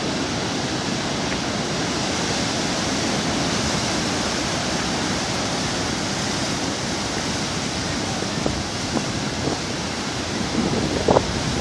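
Steady, even rush of sea surf washing on the shore below, swelling slightly a few seconds in, with a few faint taps near the end.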